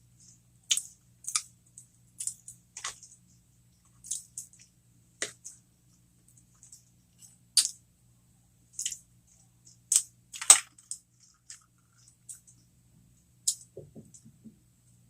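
Close-miked chewing of a breaded cheeseburger jalapeño popper: irregular sharp, wet mouth clicks and crunches, a dozen or so spread unevenly.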